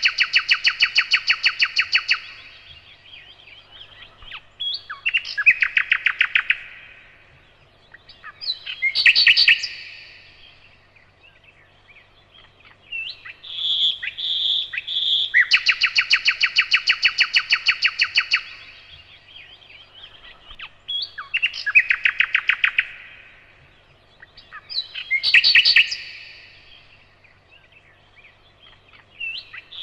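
Nightingale singing loud, separate phrases with pauses between them: clear whistled notes, long rapid rattling trills of two to three seconds, and short bursts of sharp notes. The same sequence of phrases comes round again about every 14 seconds. A faint low hum lies underneath.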